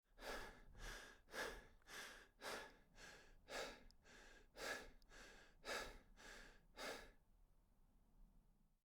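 A person breathing heavily in a steady rhythm, about eleven loud breaths a little under two a second, then quieter breathing near the end.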